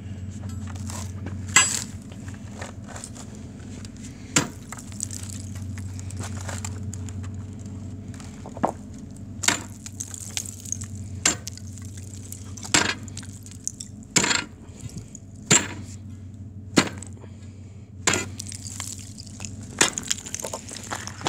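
Shore ice crunching and cracking in a string of short, sharp cracks, one every second or so, over a steady low rumble.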